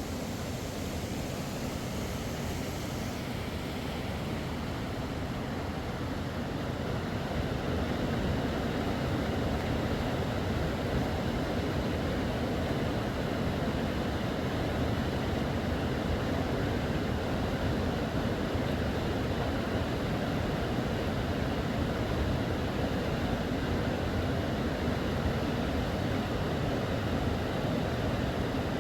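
Rushing mountain river water: a steady, even rush that grows a little louder about seven seconds in.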